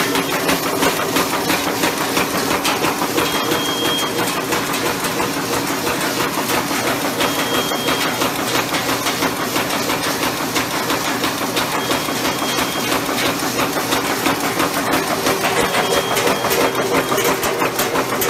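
Automatic umbrella-head roofing nail making machine running: a fast, steady mechanical clatter, with a short high tone recurring about every four seconds.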